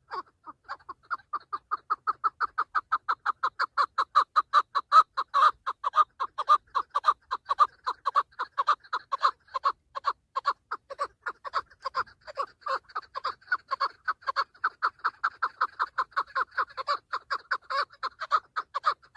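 Chukar partridge giving its rapid, repeated 'chuck' rally call, about four to five notes a second.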